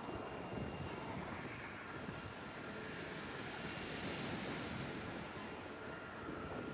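Waves washing on a sandy beach, with wind buffeting the microphone.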